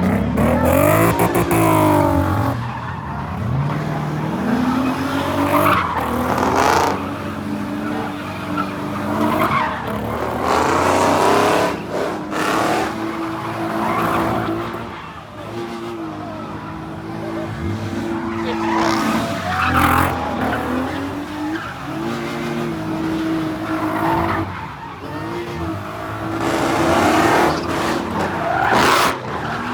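Car engines revving hard and held at high revs while the tires squeal, as cars drift and slide in circles; the revs climb, hold and drop repeatedly.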